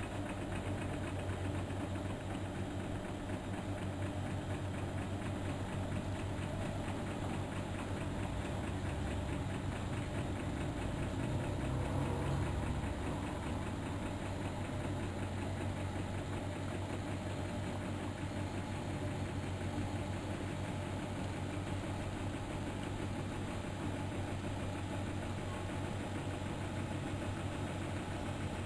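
Miele Novotronic Meteor 2200 washing machine running during a boil wash: a steady motor hum with a fine, fast rhythmic rattle that swells briefly about twelve seconds in.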